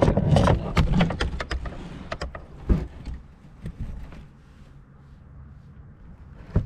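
A rapid, irregular run of knocks and clicks over a low rumble, the sound of close handling, which dies away after about three seconds to a quiet hum.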